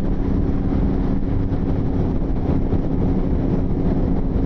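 Motorcycle engine running at a steady cruising speed with wind rushing over the helmet microphone; an even drone with no change in pitch.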